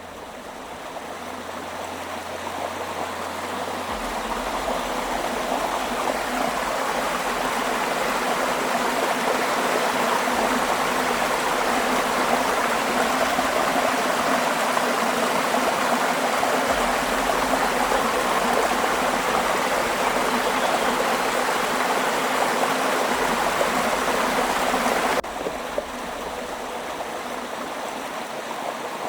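Rushing river water, a steady roar of flowing water that swells over the first several seconds, then drops abruptly to a quieter rush about 25 seconds in.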